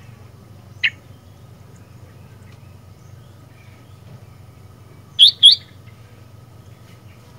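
Sooty-headed bulbul calling: one short sharp note about a second in, then two loud notes in quick succession about five seconds in, over a faint steady low hum.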